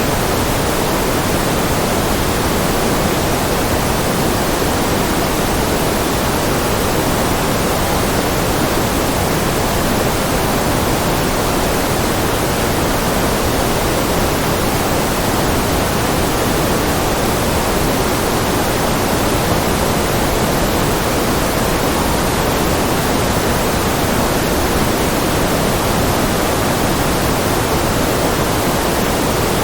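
Steady white noise: an even, unchanging hiss with no rhythm, tones or breaks.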